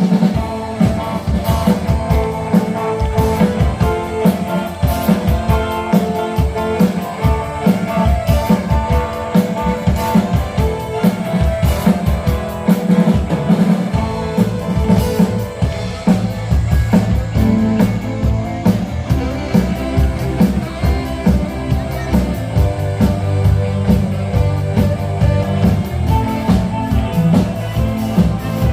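A band playing an instrumental rock piece, with drum kit keeping a steady beat under guitar.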